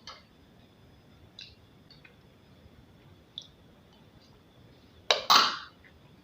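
Eating sounds at a meal of abacha: a few faint clicks, then two short, loud crunching scrapes about five seconds in.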